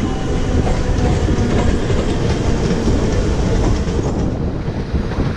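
Mumbai suburban EMU local train running along the fast line at speed, heard from the outside of the coach: a steady loud rumble of wheels on rail with clatter over the rail joints. The upper hiss thins about four seconds in.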